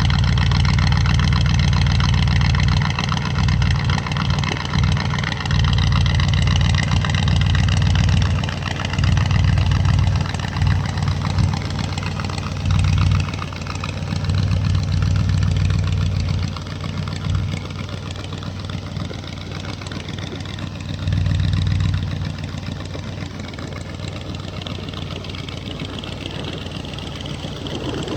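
A 1975 Ford F100 pickup's engine running, its low rumble surging louder several times through the first half and again about three quarters of the way in, then settling to a steadier idle.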